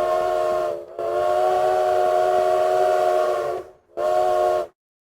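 Steam locomotive chime whistle blowing in blasts, several notes sounding together: one blast ending just under a second in, a long blast of nearly three seconds, then a short blast that cuts off sharply.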